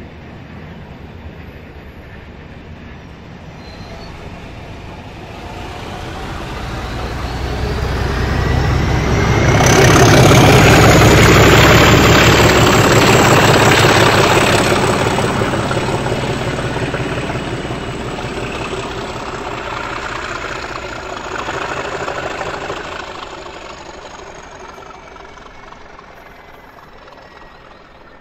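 A train passing at speed, its sound building, peaking and then fading away, with a low rumble, rapid clatter of wheels over the rail joints and a high whine that rises and then falls.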